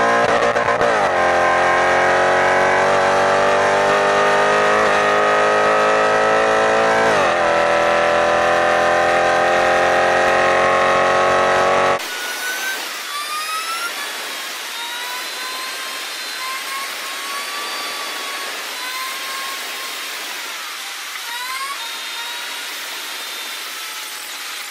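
Mercedes-Benz C63 AMG V8 engine accelerating hard. Its pitch climbs steadily and drops sharply at two gear changes, about a second in and about seven seconds in. About twelve seconds in the sound cuts to sped-up audio: the engine turns into a thin, high-pitched whine gliding up and down, with no low end.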